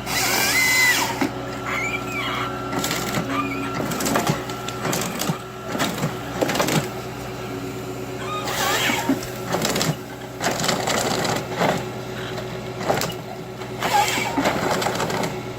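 Volvo ECR145EL excavator's diesel engine running steadily while its Nisula 555H harvester head works a tree: repeated sharp cracks and knocks of the trunk and limbs being gripped, fed and cut. There are a few short squeaks in the first few seconds.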